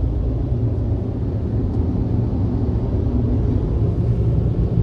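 Steady low rumble of automatic car wash machinery, heard from inside the car's cabin.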